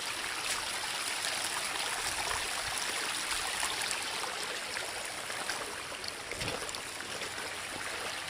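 Rainwater runoff rushing down off a mountainside in a steady, even stream, swollen by the previous day's very heavy rain.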